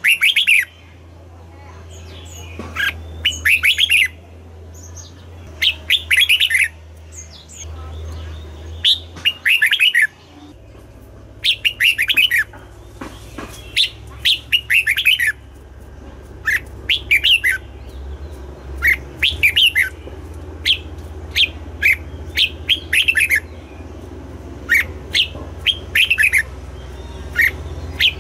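Red-whiskered bulbul singing: short bursts of quick, bright chirping phrases, repeated every second or two over a steady low hum.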